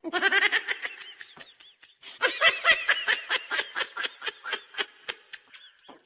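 A rapid series of short, high-pitched vocal pulses, about four to five a second, in two runs with a pause of about a second between them.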